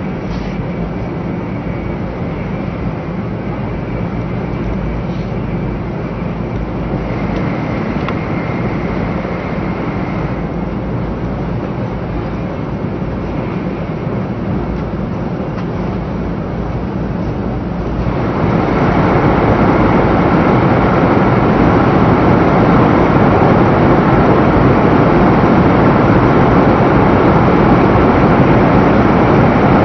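Steady running noise of a 500 series Shinkansen at speed, heard from inside the passenger cabin. About 18 seconds in it turns suddenly louder as the train enters a tunnel.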